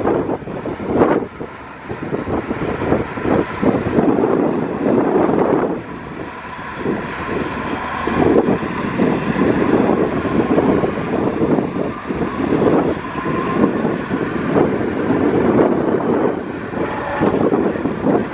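Diesel engines of earthmoving machinery running, with gusty wind buffeting the microphone so the loudness rises and falls unevenly.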